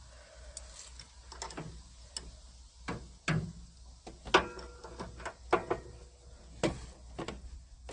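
Metal hand tools clicking and knocking as a wrench is fitted to and worked on a car's door bolts: a dozen or so irregular sharp clicks.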